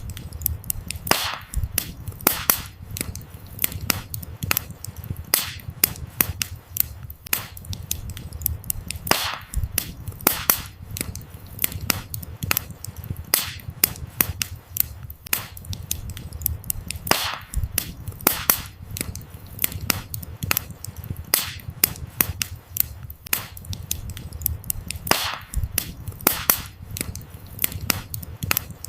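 Wood fire crackling: burning firewood giving frequent sharp snaps and pops, a few louder ones every second or so, over a steady low rumble.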